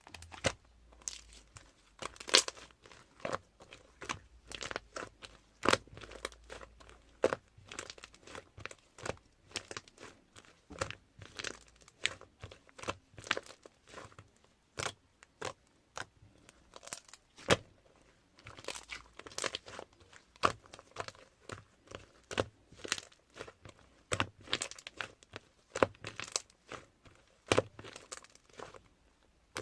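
Slime being pressed and squished, giving off irregular sharp clicks and crackling pops.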